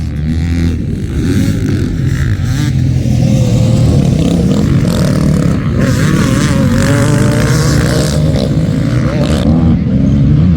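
Motocross dirt bike engines running hard, their pitch rising and falling as the riders work the throttle.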